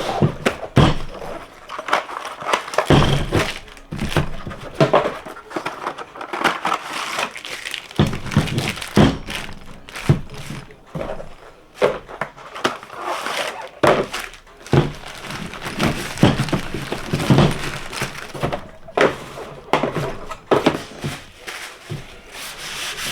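Irregular knocks, clicks and clatter of metal engine parts handled on a workbench while a piston is fitted to its connecting rod.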